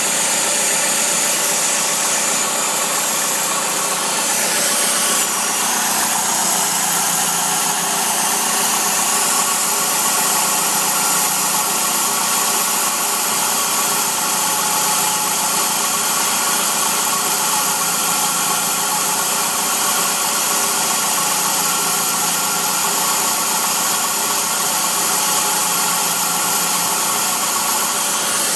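Chrysler PT Cruiser's four-cylinder engine idling steadily, with a steady high hiss over it.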